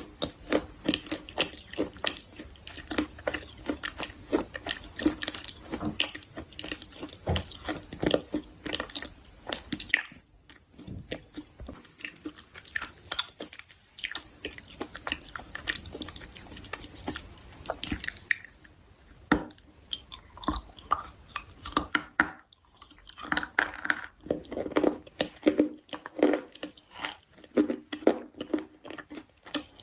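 Close-miked chewing and biting of a crunchy food: rapid crackling crunches, thinning out about ten seconds in and again around the twenty-second mark, then denser crunching near the end.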